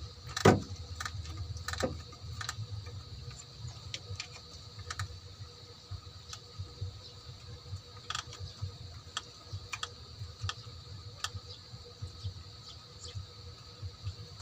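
Scattered clicks and light knocks of hand tools and metal parts being handled during engine work, with a sharper knock about half a second in and another near two seconds, over a steady background hum.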